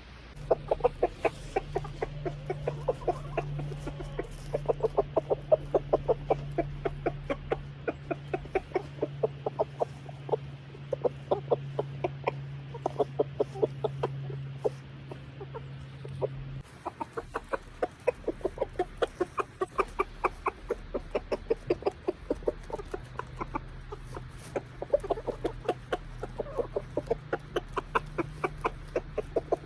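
Chickens clucking in long runs of short, quick notes, with a steady low hum underneath.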